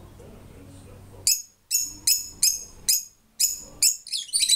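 Bird calling: a series of short, sharp, high-pitched calls about two a second, breaking into a fast chattering run near the end.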